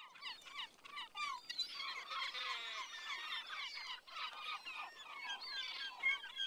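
Several songbirds singing at once: many short, overlapping chirps and quick down-sliding whistled notes.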